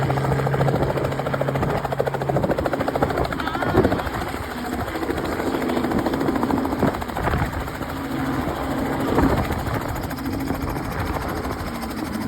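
Helicopter coming in to land, its rotor blades beating in a rapid, steady chop over the engine's running sound.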